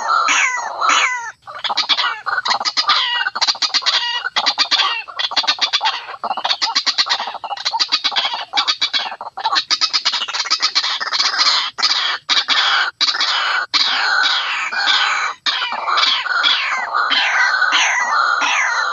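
White-breasted waterhen calling: dense runs of rapid repeated notes with a few brief breaks, played back as a lure call for waterhens.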